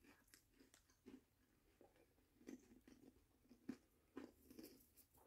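Faint, irregular crunching of a person chewing thick, crunchy snack chips with the mouth closed.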